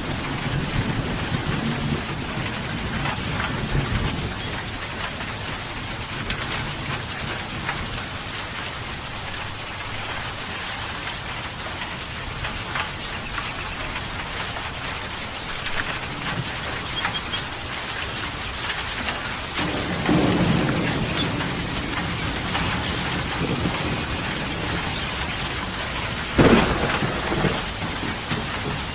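Steady heavy rain falling, with thunder: a fading rumble at the start, a low rumble about two-thirds of the way through, and a sharp clap near the end.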